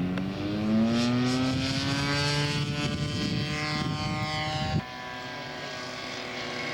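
Radio-controlled model Spitfire's engine running with the propeller turning, climbing in pitch over the first two seconds and then holding steady. It cuts off abruptly about five seconds in, leaving a fainter steady drone.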